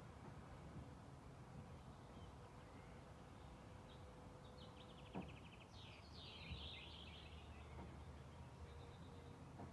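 Quiet forest ambience with small birds calling faintly: a quick, evenly spaced trill about halfway through, then a short warbling song, over a soft steady hiss. A single faint knock comes just after the trill starts.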